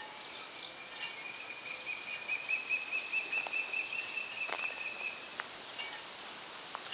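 A bird calling: one high, thin whistle held for about five seconds, rising slightly and warbling in the middle. A few sharp clicks sound around it over outdoor background noise.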